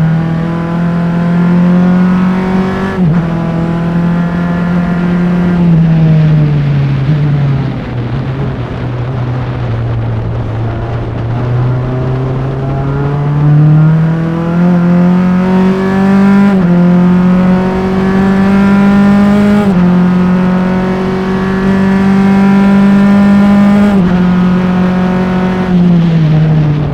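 Single-seater Formula Enterprises race car's engine at racing speed, heard up close. The pitch falls as it slows for a corner, then climbs steadily, with three sharp drops at upshifts. It eases off again near the end.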